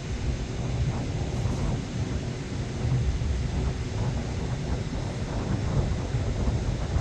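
Wind buffeting the microphone: a gusty low rumble that rises and falls without a break.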